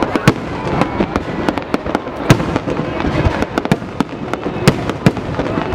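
Fireworks display: a rapid, irregular run of sharp bangs and pops, several a second, over a continuous crackle.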